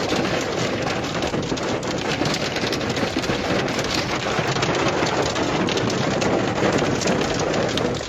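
Hailstones pelting down continuously, a dense, steady clatter of many hard impacts with a rain-like hiss underneath.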